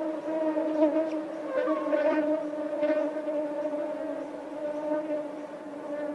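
Mosquito flying, its wingbeat a steady, slightly wavering buzzing whine that swells briefly a few times.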